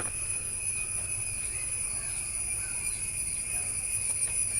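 Steady, high-pitched chirring of insects, one even shrill tone with a fainter, lower one beneath it, over faint low background noise.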